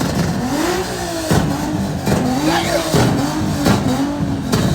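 A car engine revved hard over and over at a standstill, its pitch rising and falling about once or twice a second, with several sharp exhaust pops and bangs as it spits flames from the exhaust.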